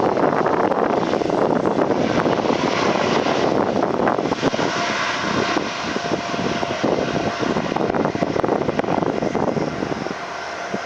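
Jet airliner's turbofan engines running loud and steady as the aircraft passes, a faint whine rising out of the rush partway through.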